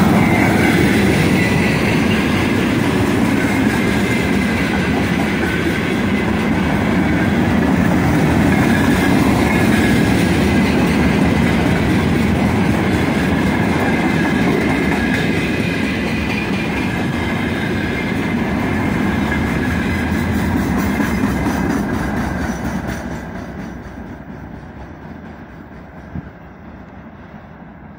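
Freight train of about thirty wagons rolling past on the track, its wheels running steadily over the rails. The sound fades away over the last few seconds as the tail of the train recedes.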